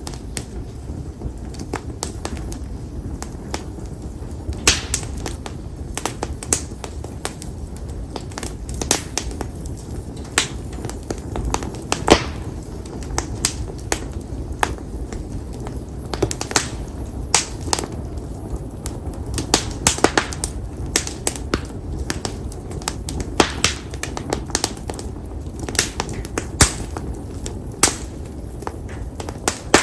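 Campfire of split konara oak logs burning, with frequent sharp, irregular pops and crackles over a steady low rush of flame.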